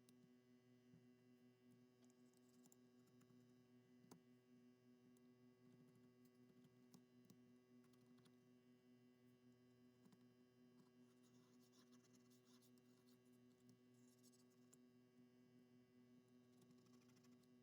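Near silence: a faint steady electrical hum, with a few faint clicks.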